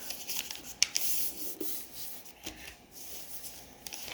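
A sheet of paper being folded and creased by hand: dry rubbing and sliding of paper, with a few sharp crackles, the loudest a little under a second in.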